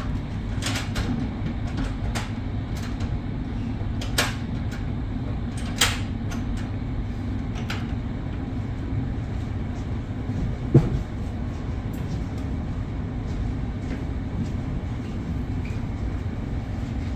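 Steady low rumble of a double-deck sleeper train under way, heard from inside the carriage, with scattered sharp clicks and one louder knock about eleven seconds in.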